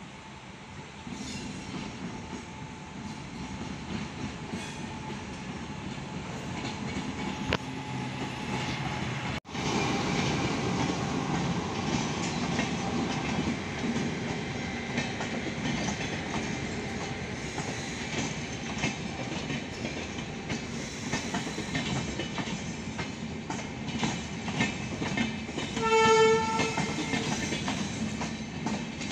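An LHB passenger train hauled by a WAP-7 electric locomotive rolling past, its wheels clattering over rail joints and growing louder as it approaches. About 26 seconds in, a train horn sounds once for about a second.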